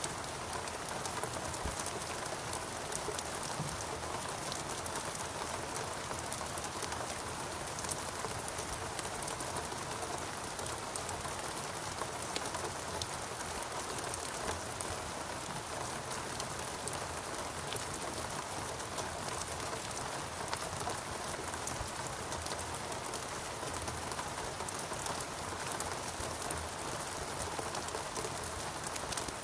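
Steady rain falling in a rainforest, an even hiss with many small drop ticks on leaves and surfaces.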